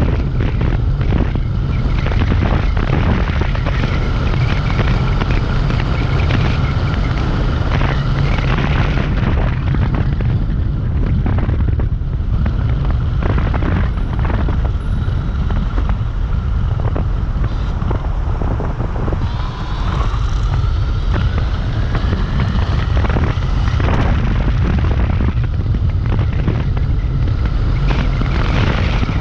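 Heavy wind rumble on the microphone from riding a Dualtron Compact electric scooter, with a faint steady whine from its electric motor. A little past halfway the whine rises in pitch as the scooter speeds up.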